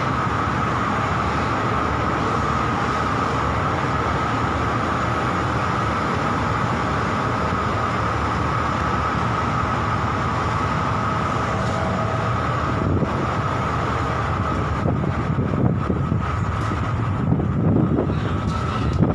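Steady mechanical drone aboard a ship in rough sea, with a constant high hum running through it. Irregular knocks and rumbles come in during the last several seconds.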